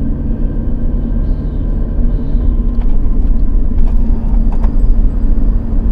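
Nissan Skyline HCR32's straight-six engine running at a steady speed with a low rumble, with no revving up or down.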